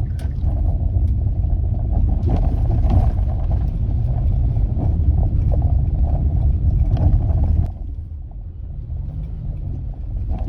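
Car driving, heard from inside the cabin: a steady low rumble of engine and road noise with scattered small knocks and rattles. The rumble drops noticeably a little under eight seconds in.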